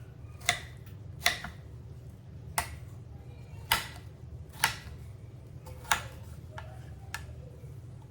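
Knife chopping on a cutting board: seven sharp knocks, spaced irregularly about a second apart, over a steady low hum.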